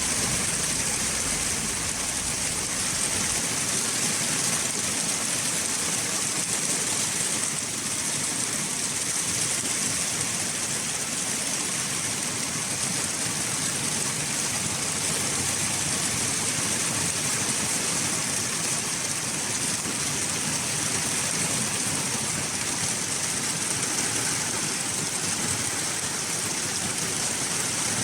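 Steady, heavy rain falling: an even hiss with no break and no clear thunder claps.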